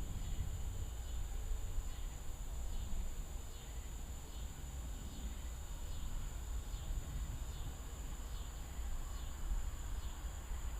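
Evening insects, crickets or katydids, chirping in a regular rhythm, a little under once a second, with a steady high insect drone, over a continuous low rumble.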